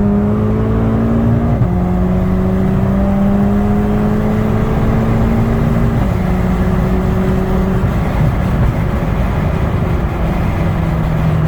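Big-turbo VW Golf GTI Mk6's turbocharged 2.0 four-cylinder engine at wide open throttle, pulling hard and rising slowly in pitch through each gear. The pitch drops sharply three times with the upshifts: about a second and a half in, about halfway through, and near the end.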